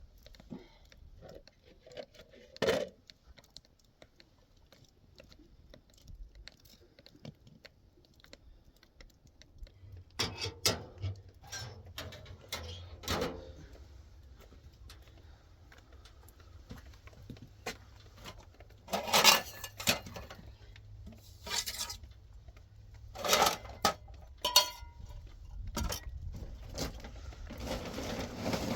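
Scattered clinks and knocks of dishes and pots being handled, coming in short clusters with pauses between.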